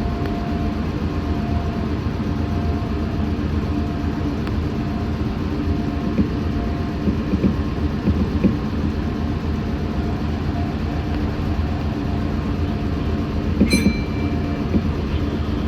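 Meitetsu 6500 series electric train running, heard from inside the car: a steady rumble of wheels and running gear, with a faint steady hum. About fourteen seconds in there is one sharp metallic click that rings briefly.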